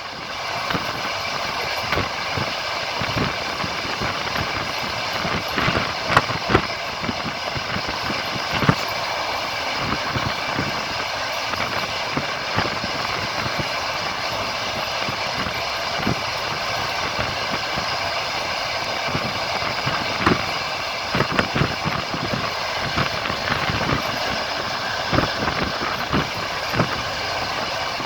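Passenger train rolling along the line, heard from on board: a steady running rumble with sharp, irregular clacks of the wheels over rail joints, some of them in quick clusters.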